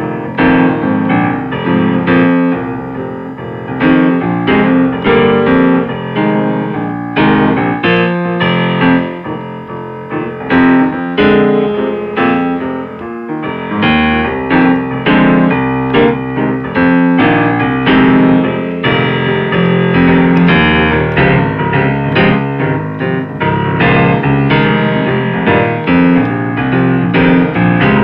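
Jazz piano playing chords and melody, notes struck in quick succession, with a steady low register underneath.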